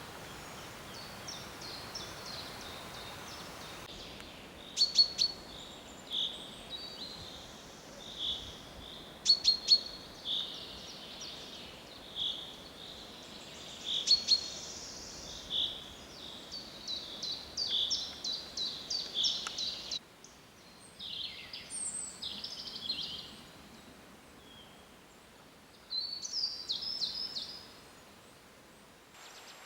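Wild birds singing and calling in a spring forest: repeated short whistled notes and trilled phrases. Several sharp, loud clicking notes stand out, about 5, 9 and 14 seconds in.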